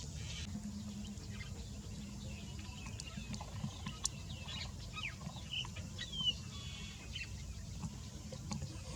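Bird calls: short chirps and quick sliding notes, scattered through, over a steady low rumble.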